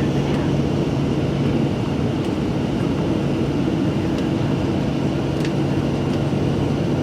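Steady drone inside a small airliner's cabin, its engines and air system humming at a constant pitch with a couple of faint clicks.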